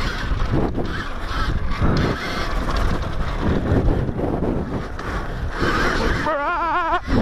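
Wind buffeting the rider's microphone while riding an Alta Redshift MX electric motocross bike, with no engine note. A brief wavering, warbling pitched sound comes near the end.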